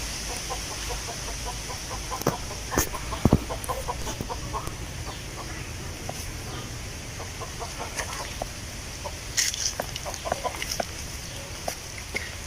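Wind blowing through leaves, a steady rustling hiss with a low rumble underneath. Over it come clusters of short, quick animal calls, about two seconds in and again near the end, along with scattered sharp clicks.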